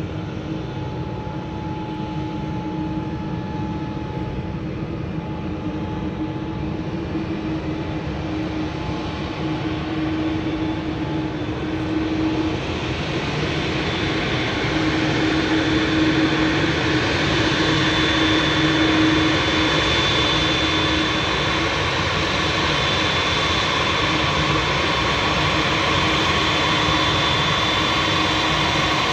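Jet engines of an arriving Boeing 787-9 airliner, a steady roar with a low hum that grows louder and brighter about halfway through as the aircraft nears. A high-pitched whine comes in over the last third.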